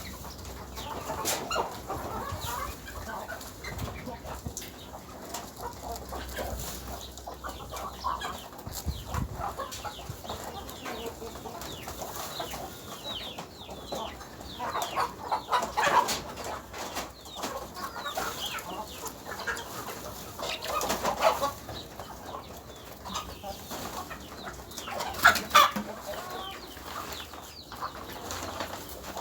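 Chickens clucking and calling, with many short chirps and clicks and several louder calls about halfway through and near the end.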